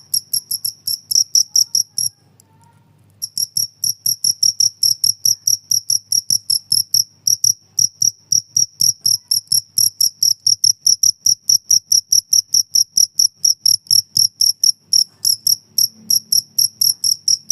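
A cricket chirping in an even run of short, high pulses, about four a second, with a brief pause about two seconds in.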